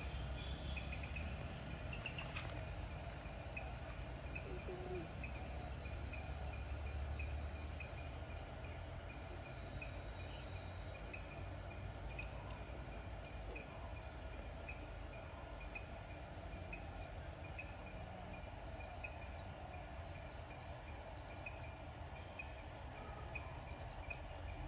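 Outdoor ambience: a bird's short, high call repeated about once a second over a steady low rumble.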